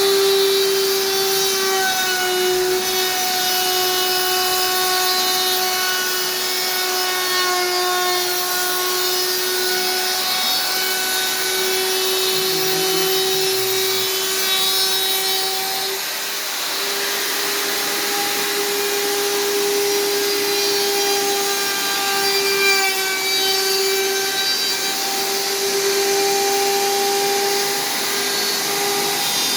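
Electric woodworking power tool running continuously on wood, a steady motor whine whose pitch dips slightly now and then as the load changes.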